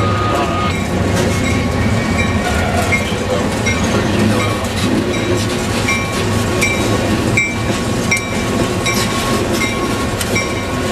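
A CSX work train's railcars rolling slowly on jointed track, with steady rumble, repeated wheel clacks and faint squeaks.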